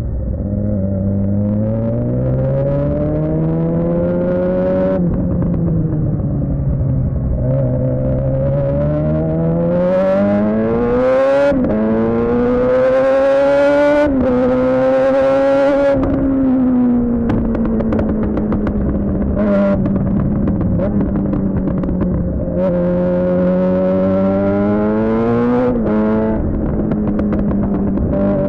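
Suzuki GSX-R600 inline-four through a Yoshimura R11 exhaust, accelerating hard through the gears. The revs climb and drop sharply at upshifts about five and eleven seconds in. It holds high revs, falls off as the rider rolls off the throttle, then climbs again to another shift near the end.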